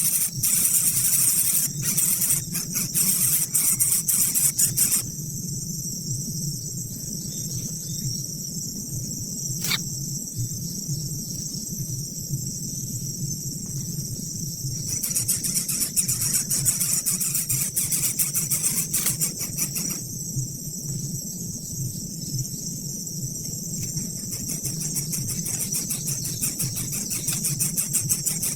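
Insects trilling in a dense, high-pitched, fast-pulsing chorus over a low steady hum, with one short click about ten seconds in.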